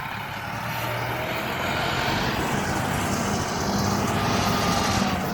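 A motor vehicle's engine running close by. Engine hum and road noise swell through the middle, with a slowly falling tone, then ease off near the end, like a vehicle going past.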